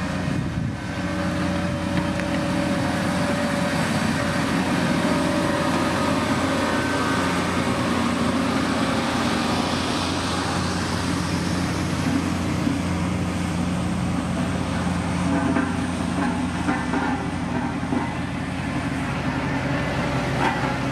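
A motor grader's diesel engine running steadily throughout, a deep even drone with no sharp breaks.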